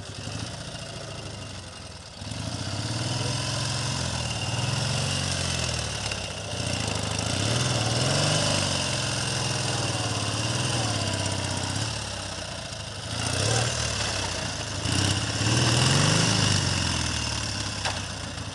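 Kiev K-750 sidecar motorcycle's flat-twin engine running, quieter at first and then revved up and down again and again under load, its pitch rising and falling. The revs drop briefly about two-thirds of the way through, then climb to their highest shortly after.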